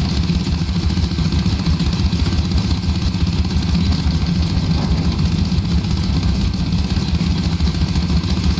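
Small gasoline engine of a log splitter running steadily at idle, a low, even, pulsing drone throughout.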